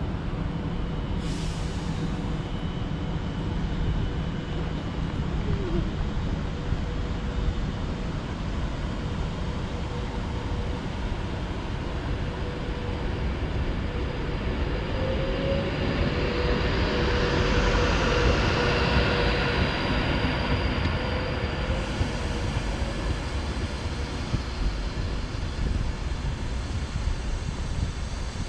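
A train moving through a railway station: a continuous rumble with a faint steady whine, growing louder to a peak about two-thirds of the way through and then easing off.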